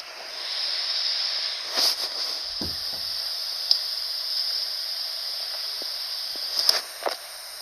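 A steady breathy hiss, a mouth-made jet whoosh for a toy plane flown by hand, with a few faint clicks.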